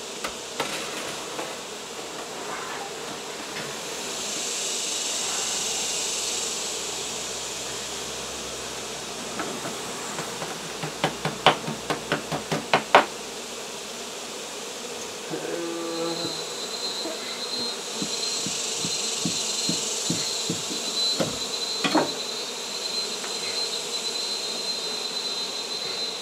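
Honey bees buzzing around an exposed hive being cut out, with a quick run of about eight sharp taps a little before the midpoint. A thin, steady high tone joins the buzzing after the midpoint.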